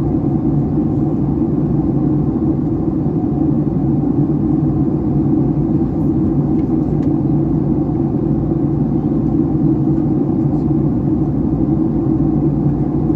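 Steady cabin noise inside a Boeing 757-300 airliner in flight: an even rumble of engines and airflow with a constant low drone.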